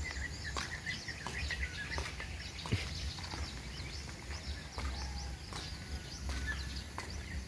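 Birds chirping, many short calls, over a steady low background rumble, with a few faint clicks.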